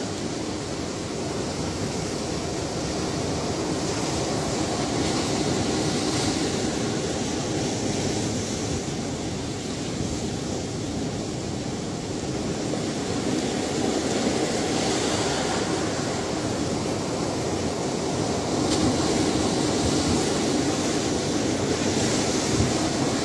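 Ocean waves breaking and washing on the shore, a continuous rush of surf with swells of hiss every few seconds.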